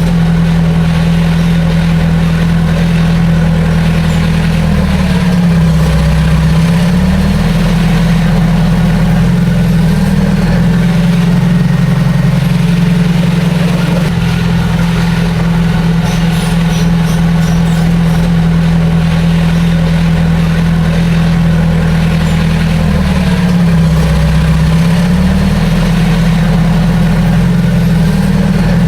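Heavy diesel engine of earthmoving machinery running steadily. Its note dips in pitch twice, about five seconds in and again near the end.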